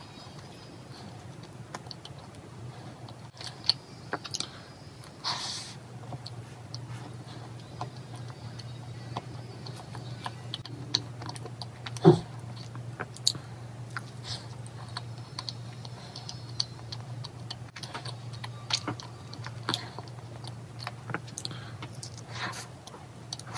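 Close-miked chewing of a soft, chewy chocolate s'more cookie: scattered small mouth clicks and soft bites, with one sharper click about halfway. A steady low hum lies underneath.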